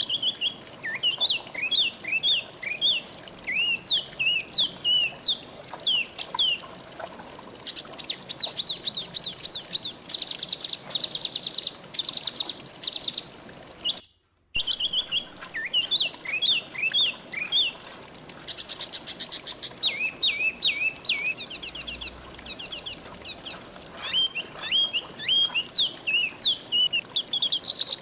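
A songbird singing in quick runs of hooked chirps and fast buzzy trills, over a steady high-pitched drone. The song drops out for a moment about halfway through, then resumes.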